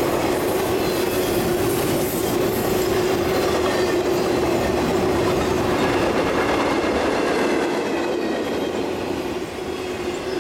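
Intermodal freight cars carrying highway trailers rolling past at speed: steel wheels running on the rail with clickety-clack and a steady tone through the rolling noise. The sound eases a little near the end as the last car goes by.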